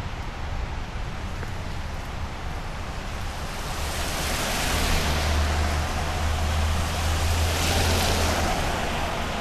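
Wind rumbling on the microphone under a steady hiss of wet outdoor noise. The hiss swells about four seconds in and eases near the end, as tyres on a wet road do when a vehicle goes by.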